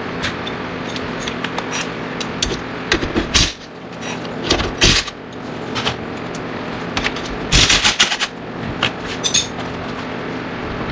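An impact wrench hammering in three short rattling bursts, the last the loudest, over a steady hum, as the steering-knuckle mount bolts at the strut are loosened.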